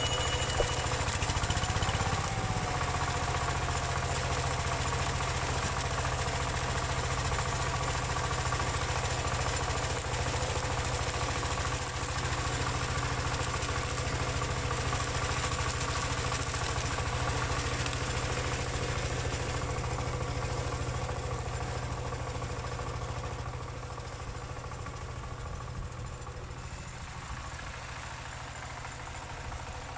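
Single-cylinder Dongfeng diesel engine of a two-wheel paddy tractor running steadily while working the field, growing fainter over the last several seconds.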